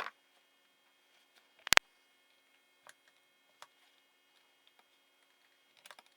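Sharp, scattered clicks and taps of metal tools and parts being handled during an engine teardown, the loudest a sharp double click just under two seconds in, with a few lighter ticks after it and a small cluster near the end.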